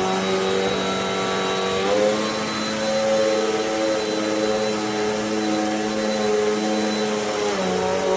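Amazon Basics upright bagless vacuum cleaner running with a steady motor hum. Its pitch steps up about two seconds in and drops back near the end.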